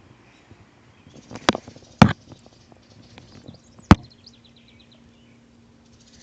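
Three sharp knocks, about one and a half, two and four seconds in, with fainter clicks between them.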